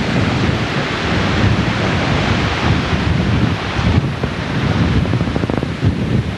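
Flash-flood water rushing steadily, with heavy wind buffeting the microphone.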